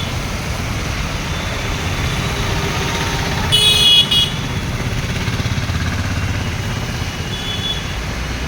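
Steady road-traffic rumble with a short, high-pitched vehicle horn toot about three and a half seconds in.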